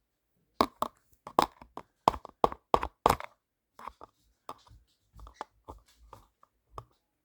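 An irregular run of sharp taps and knocks, about twenty in all, some with a dull low thump: close-up handling noise, with nothing said to tell what is being handled.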